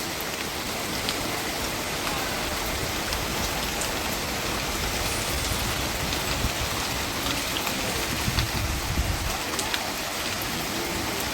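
Steady heavy rain falling, a dense even hiss with scattered ticks of individual drops.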